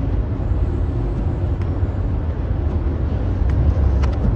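Steady low rumble with a couple of faint clicks.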